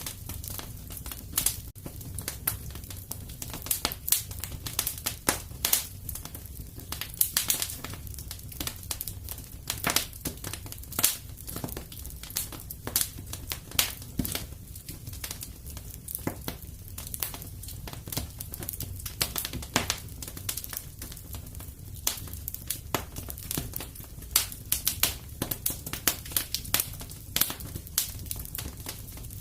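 Fire in a fireplace crackling and popping: many sharp, irregular snaps over a steady low rumble.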